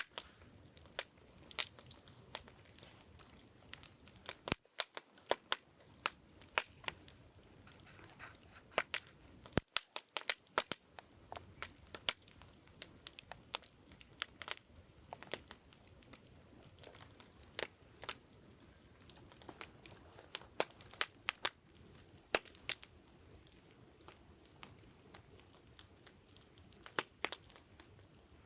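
Wood campfire crackling: irregular sharp pops and snaps from burning logs over a soft steady hiss of flame.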